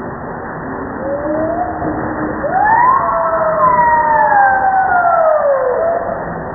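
Heavy rain with hail falling steadily, with a wailing tone over it that rises sharply about two and a half seconds in and then falls slowly, dying away near the end.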